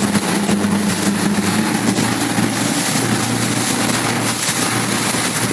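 Motorboat engine running under way, with strong wind rushing over the microphone; the engine's note shifts about two seconds in.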